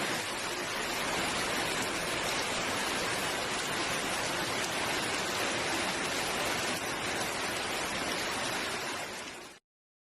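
Heavy typhoon rain falling: a steady, even rush that stops abruptly near the end.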